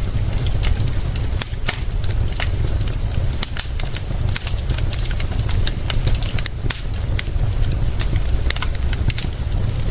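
Wood fire crackling, with many irregular sharp pops and snaps, over a steady low rumble.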